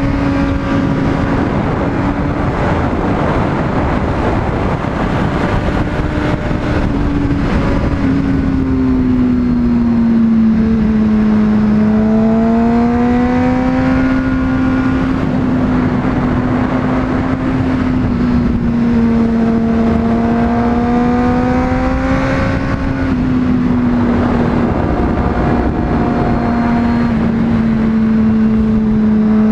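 Honda CBR600RR inline-four engine running at steady high revs while riding, its pitch rising and falling gently with the throttle, over a constant rush of wind noise.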